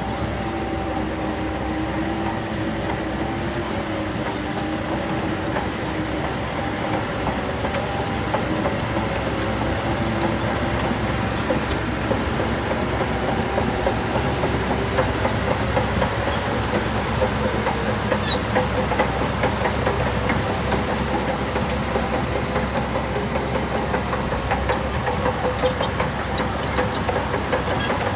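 Heavy diesel construction machinery running, its engine pitch wavering, with a rapid metallic clatter building up from about a third of the way in and a few short high squeaks near the end.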